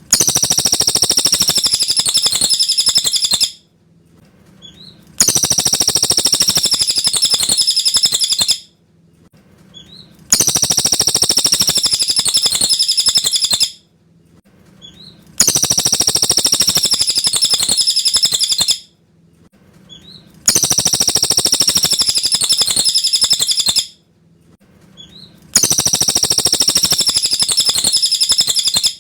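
Cililin bird singing clear, high song phrases in bursts of about three seconds. The same phrase repeats about every five seconds, six times, with faint short calls in the pauses.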